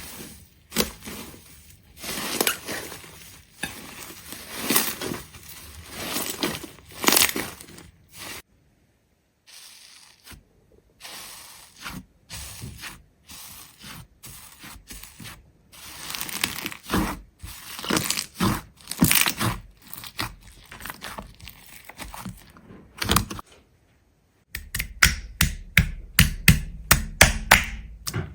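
Crisp cracking and crunching, a string of sharp cracks in short segments separated by brief silences; near the end comes a fast run of loud crunches, about three or four a second.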